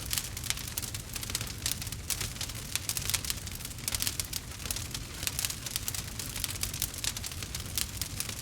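Campfire burning with dense, rapid crackling and snapping over a low steady rumble.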